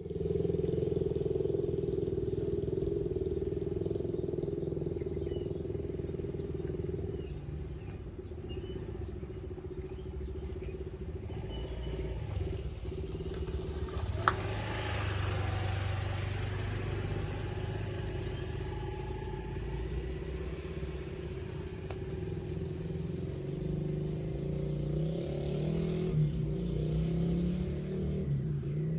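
Motorcycle engines running steadily, with a single sharp knock about halfway through.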